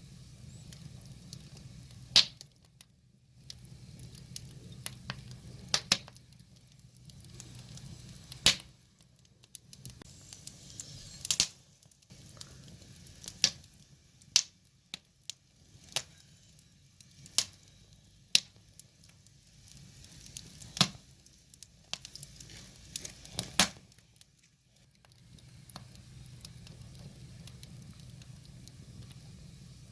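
Wood fire crackling, with sharp, irregular pops every second or so.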